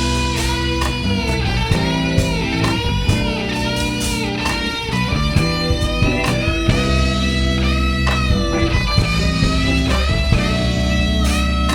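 Live band playing a blues-rock instrumental with electric guitar, its bent notes over a steady bass.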